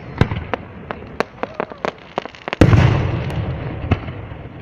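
Fireworks going off: a string of sharp cracks and pops, then one big boom about two and a half seconds in that rumbles away.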